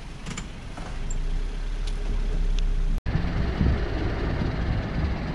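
Car engine idling with a low rumble. After a sudden cut about three seconds in it comes back louder.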